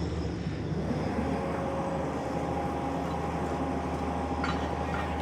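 Steady machinery running: a low hum with a few steady whining tones over it, and a brief clink about four and a half seconds in.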